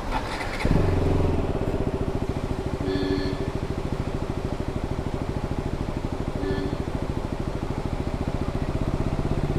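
Single-cylinder engine of a KTM Duke 200 motorcycle that comes in suddenly about a second in, then runs steadily at idle with an even, rapid pulse and no revving.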